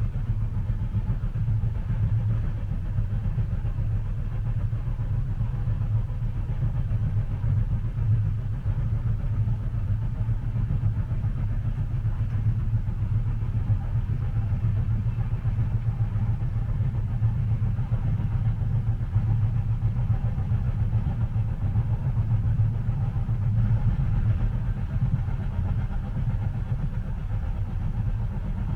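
Steady low rumble of a train heard from inside a passenger car, even throughout, with no distinct rail clicks.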